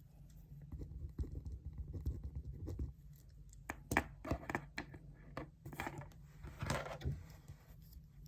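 Paper being handled at a desk: scratchy rustling, then several sharp clicks and a longer crinkling rustle, over a low steady room hum.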